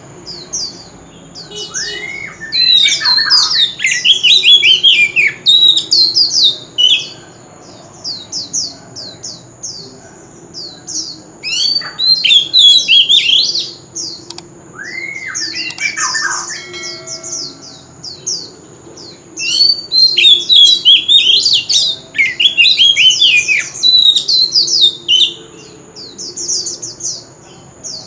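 Oriental magpie-robin singing: bouts of loud, rapid, varied whistled phrases with sliding notes, broken by short pauses of a few seconds.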